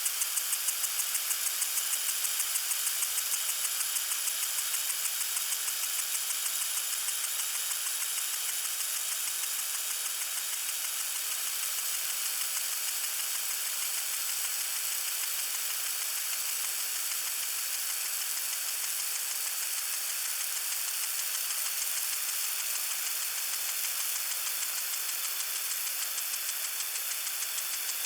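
Water sprinkler spraying: a steady high hiss of water with a rapid, even pulsing, about four pulses a second.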